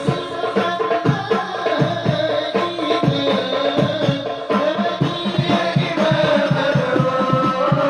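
Devotional sholawat singing by a group of voices, accompanied by a fast, steady pattern of hand-struck frame drums.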